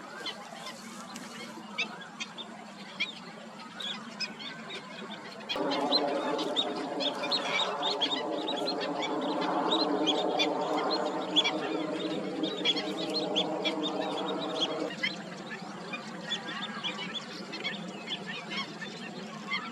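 Many birds calling, with short high calls repeating throughout. From about six seconds in to about fifteen seconds, a louder steady drone made of several pitched tones sounds underneath the calls and then cuts off.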